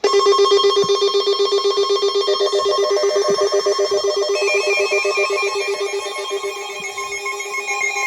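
Weather radio alert alarm for a severe thunderstorm warning: a loud, rapidly trilling, ring-like electronic tone that starts abruptly, with a second, higher tone joining about four seconds in.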